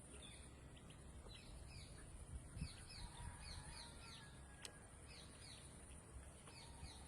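Small birds chirping faintly: clusters of short, quick down-slurred chirps over a steady high hiss, with one sharp click about halfway through.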